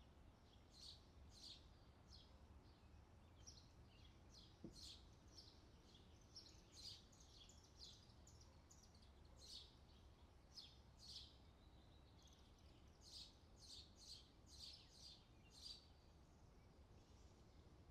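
Faint outdoor summer ambience recording: short bird chirps repeating irregularly, roughly one or two a second, over a steady low background rumble.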